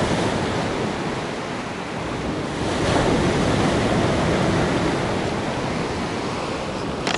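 Black Sea surf washing onto the shore in a steady rush of waves, swelling louder about three seconds in; the sea is restless.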